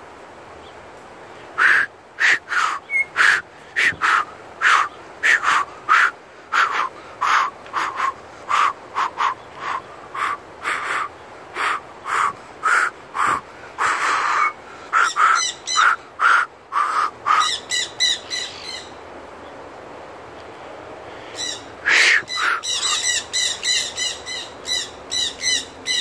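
Aviary birds calling: a long series of short repeated notes, one or two a second, then a rapid chattering trill in two stretches, one in the middle and one near the end.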